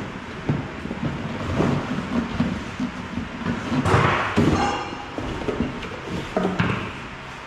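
Cardboard packaging and parts being handled while the garage door opener's motor unit is unpacked: scattered knocks and rustling, with a louder scrape a little past halfway.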